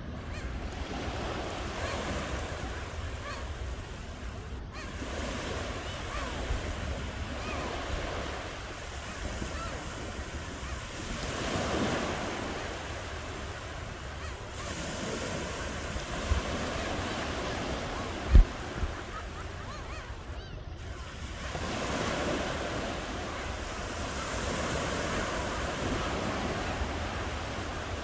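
Ocean waves washing in and receding on a shore, the surf swelling and fading every few seconds over a low wind rumble on the microphone. There is a sharp low thump past the middle, with a smaller one just before it.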